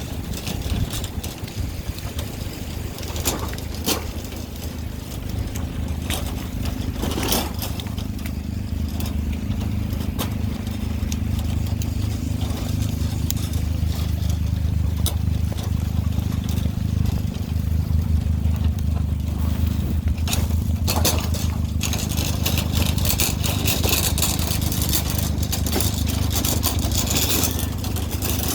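Car running, a steady low engine and road rumble, with a few sharp clicks and more hiss near the end.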